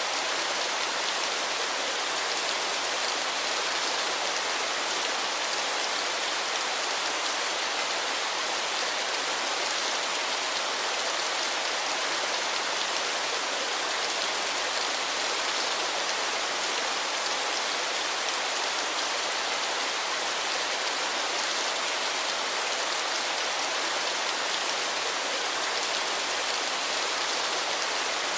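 Steady, even hiss of falling water, unchanging throughout, bright and with little low rumble.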